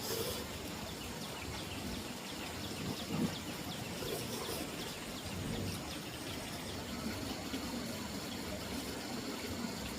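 Outdoor rural ambience: a steady background hiss with a run of faint, quick, evenly repeated chirps for a few seconds in the middle.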